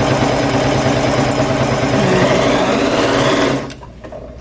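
Janome Memory Craft 6700P computerized sewing machine stitching at medium speed through four layers of fabric, running steadily without strain, then stopping about three and a half seconds in.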